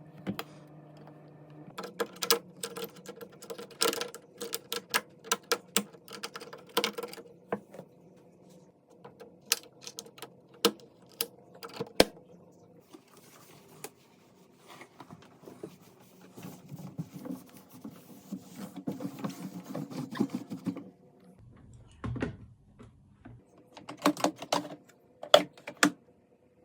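Irregular clicks, taps and knocks of hard plastic and metal being handled, with a stretch of scrubbing about halfway through, as a long-unwashed washing machine is cleaned by hand.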